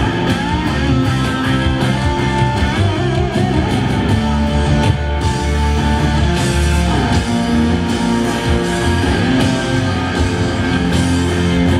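A live country-rock band playing loud, with electric guitars to the fore.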